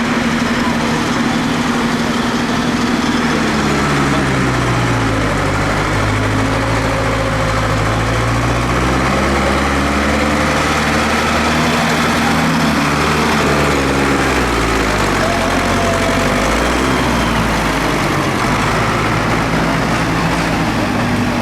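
Tractor engines running, their speed drifting slowly down and back up over several seconds.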